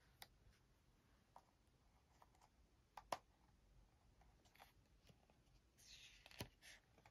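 Near silence: quiet room tone with a few faint, short clicks, the loudest a pair about three seconds in, and a brief soft hiss around six seconds.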